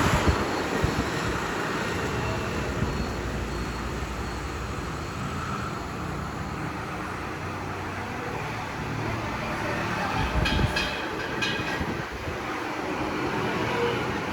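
Steady rumble and noise of a passing vehicle, with a few sharp clicks about ten to eleven seconds in.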